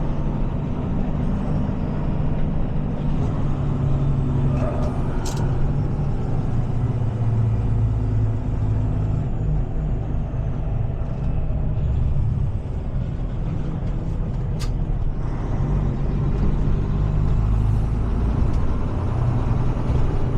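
Heavy-duty tow truck's engine running steadily as the truck moves slowly, its low hum shifting in pitch. Two short sharp clicks sound about five seconds in and again near fourteen seconds.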